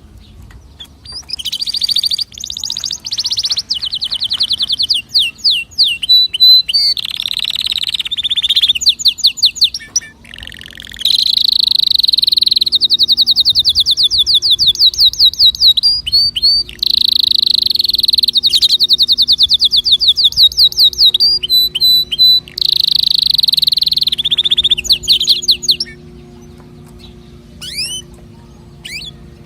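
Domestic canary singing a long song of fast rolling trills and rapidly repeated high notes, phrase after phrase with short breaks. The song stops a few seconds before the end, followed by a couple of short chirps.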